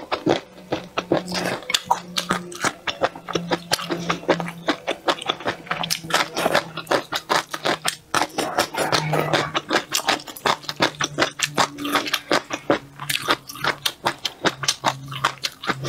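Close-miked chewing of crisp, saucy food: rapid crunches and wet clicks, several a second, from a mouthful of cold spicy duck intestine, tripe and green pepper.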